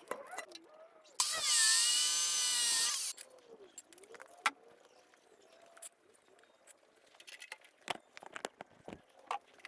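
A handheld power tool runs for about two seconds, its pitch wavering, then stops; scattered clicks and knocks of metal work follow.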